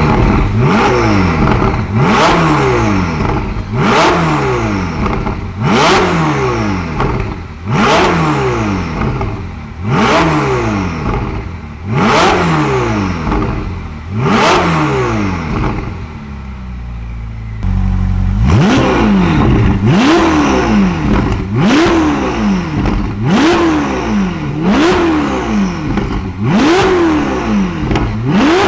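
Ferrari 488 GTB's 3.9-litre twin-turbo V8 through an IPE titanium full exhaust with high-flow catted downpipes, being revved in sharp throttle blips about every two seconds, each rev climbing fast and falling back. The revving pauses for about a second and a half to a low idle just past the middle, then resumes.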